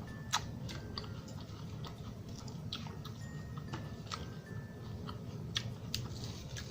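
Close-up chewing and mouth sounds of a person eating, with sharp clicks scattered irregularly through it.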